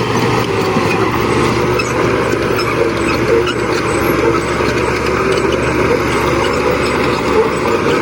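Heavy diesel earthmoving machinery, bulldozer engines, running steadily under load.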